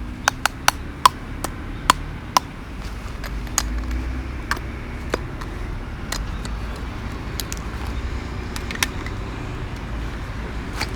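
Small twig fire in a wood-burning stove crackling, with sharp pops scattered through and bunched closely in the first couple of seconds, over a steady low rumble.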